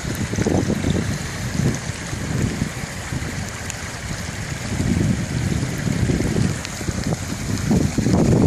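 Wind buffeting the microphone in uneven gusts over a steady rush of flowing water, floodwater running after heavy rain.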